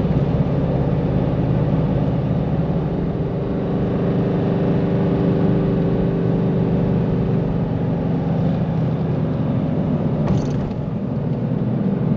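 Steady drone of the Nissan Navara's engine and tyre noise, heard from inside the cabin as the ute tows a heavy caravan up a long climb. A brief sharp sound stands out about ten seconds in.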